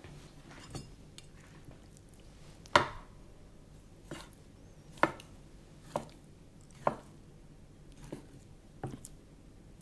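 Knife dicing raw chicken breast on a chopping board: separate sharp knocks of the blade striking the board, about one a second at an uneven pace.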